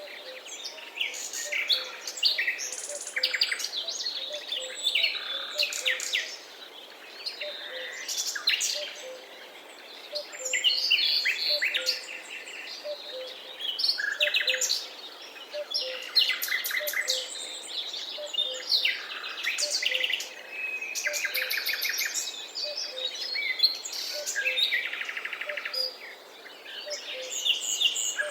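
Forest birdsong: several birds calling and singing at once, with overlapping chirps and rapid trills that come and go throughout.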